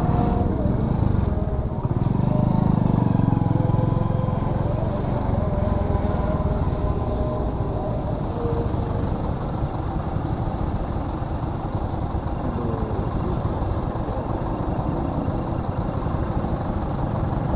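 Honda Win 100's small single-cylinder four-stroke engine running while being ridden, with wind rushing over the microphone; the engine note swells a couple of seconds in.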